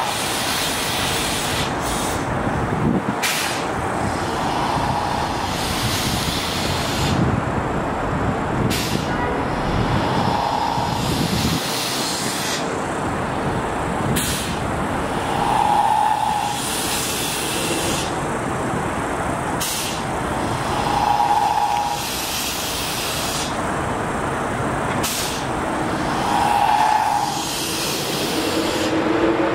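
Kawasaki M8 electric multiple-unit commuter train moving through a station, with a steady rumble and hiss from its wheels and equipment and short hisses every few seconds. Near the end a rising electric motor whine sets in as the train gathers speed.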